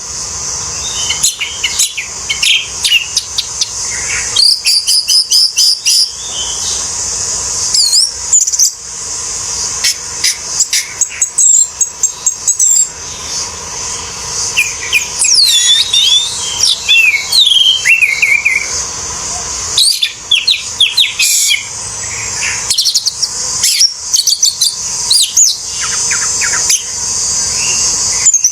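Orange-headed thrush (anis merah) singing a long, busy run of rapid, varied whistles, trills and chirps with brief pauses, over a steady high-pitched hiss.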